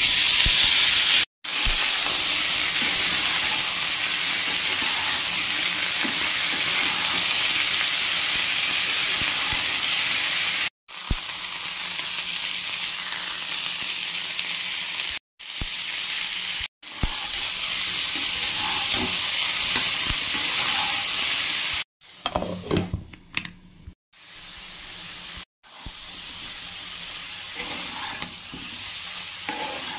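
Raw banana and potato cubes frying in hot oil: a loud, steady sizzle broken by several abrupt cuts. In the last third the sizzle dies down to a quieter hiss, with irregular scrapes and knocks of stirring in the pan.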